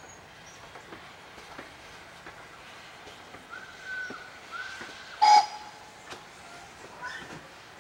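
A distant steam train under a steady low rumble, the GWR Modified Hall 4-6-0 No. 7903 Foremarke Hall, with a few small chirps. About five seconds in comes one short, loud, high-pitched toot.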